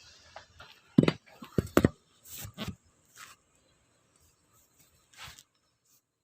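Sharp knocks from handling the car's parts and tools: three hard knocks close together about a second in, then a few softer scrapes and shuffles.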